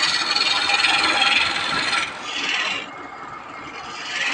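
A hand tool rasping against wood in uneven strokes, loudest in the first two seconds, dipping after a short surge and rising again near the end.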